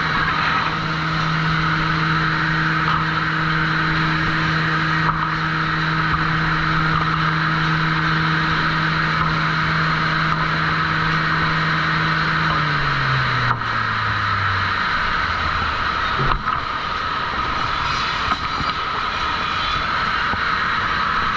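Sawmill machinery running with a steady motor hum. About twelve seconds in, the hum drops in pitch over two or three seconds and dies away as a motor winds down, while the steady mill noise carries on. A couple of short knocks follow.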